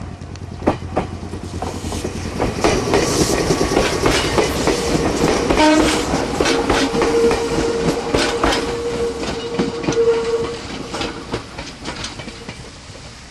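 Meitetsu electric trains running through the station, with steel wheels clattering over rail joints and points. A brief horn-like note sounds a little before halfway, then a steady high tone holds for about four seconds in the middle, and the clatter fades near the end.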